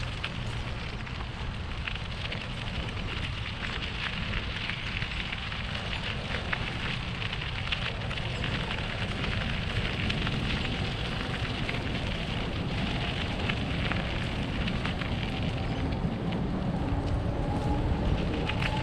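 Bicycle ride on a park path: a steady low rumble of wind on the microphone, with a dense crackle of tyre noise as the bike rolls along.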